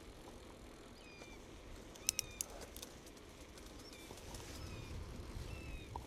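Birds calling with short, falling whistled notes, several times over. A few sharp clicks come about two seconds in, and a low rumble builds in the second half.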